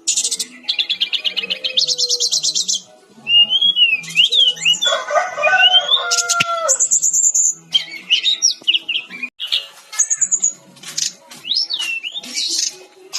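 Sikatan-rimba dada-coklat (SRDC) jungle flycatcher singing a fast, varied song. It opens with rapid high trills, then after a short pause moves into rising and falling whistles, a lower buzzy phrase and sharp high notes, recorded for bird-song training.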